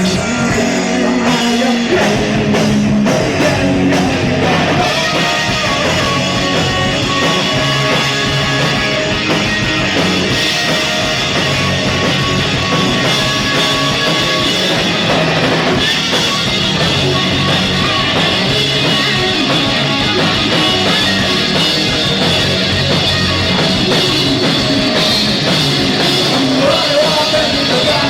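Live rock band playing a song at full volume, with drum kit, a dense and steady wall of sound.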